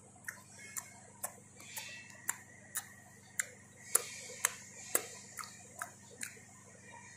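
Close-up chewing: sharp mouth clicks about twice a second, slightly uneven in spacing and strength.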